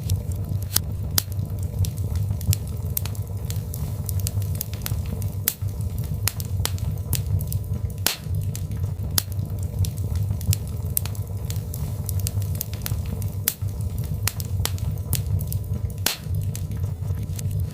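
Birch-log fire crackling in a fireplace: frequent sharp pops and snaps, irregular in timing, over a steady low rumble of the burning logs.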